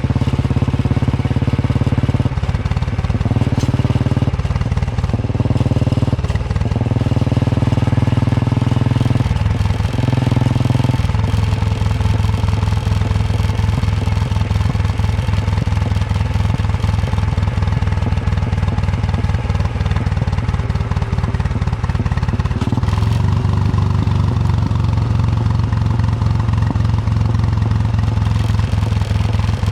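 Royal Enfield Bullet 350's single-cylinder engine thumping along on the move. The engine note breaks and shifts several times in the first ten seconds or so, as with throttle changes or gear shifts, then settles into a steady pull with one more change a little past two-thirds of the way in.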